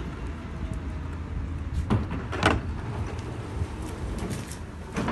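Steady low hum inside a passenger rail car standing at a station, with a few sharp clunks about two seconds in and lighter knocks near the end.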